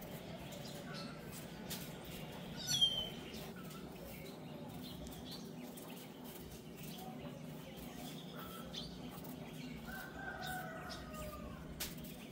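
Farmyard birds calling over a steady low background hum. There is one sharp, high, falling chirp about three seconds in, and a longer call with a slightly falling pitch about ten seconds in.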